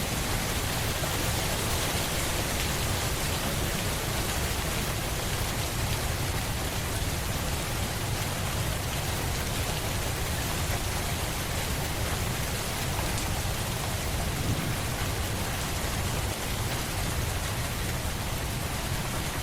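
Steady rain falling without a break: an even hiss with a deep low rumble underneath.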